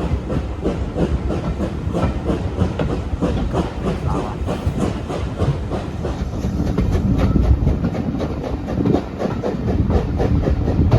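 LNER B1 Thompson 4-6-0 steam locomotive 61306 Mayflower working hard to pull away, its exhaust beating out a fast, even chuff, heard from the train with the rumble and clatter of the coaches on the rails underneath.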